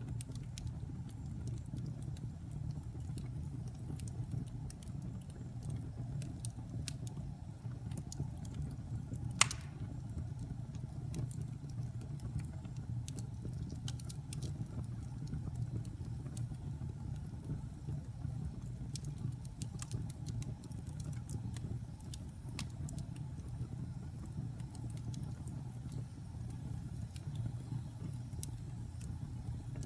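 Wood fire burning in a fireplace: a steady low rumble of the flames with frequent small crackles and pops, and one louder pop about nine seconds in.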